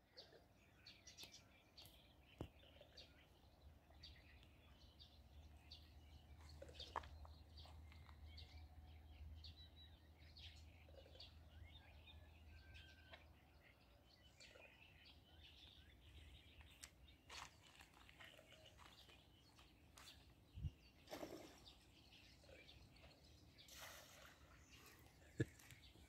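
Faint outdoor ambience with small birds chirping on and off. There is a low rumble for several seconds in the middle and a few soft knocks.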